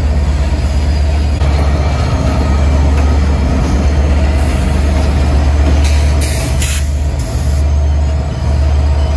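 A train running on the rails: a steady low rumble with a noisy wash of track sound and a faint thin tone, with two short hisses about six seconds in.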